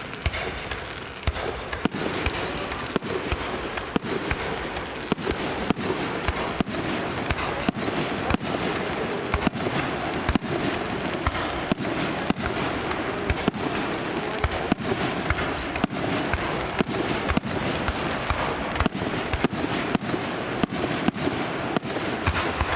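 Fireworks display: shells bursting in quick succession, sharp bangs about twice a second over a continuous crackle.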